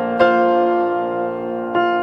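Soft background piano music: sustained notes and chords, a new chord struck just after the start and another near the end.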